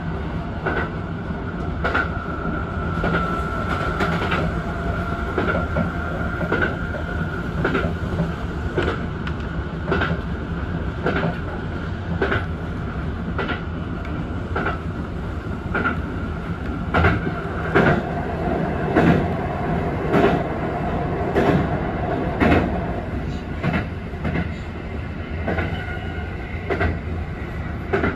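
Kintetsu Urban Liner limited express electric train running on the line, heard from the driver's cab: a steady rumble with rhythmic clicks of the wheels passing over rail joints. The clicks come louder and closer together past the middle, and a steady high tone runs through the first half.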